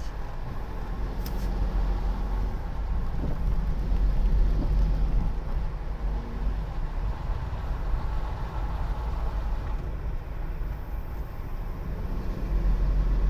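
Steady engine and road noise of a car climbing a mountain road, heard from inside the cabin as a low rumble.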